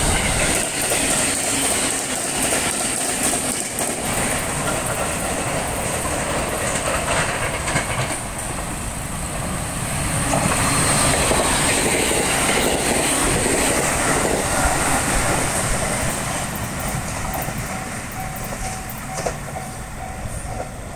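JR East 701-series electric trains running past close by, wheels clattering over the rail joints. The noise swells about halfway through, then fades as the trains draw away near the end.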